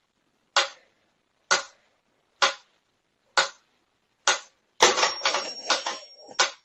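A series of sharp knocks, evenly spaced about one a second, followed near the end by a quick jumbled clatter.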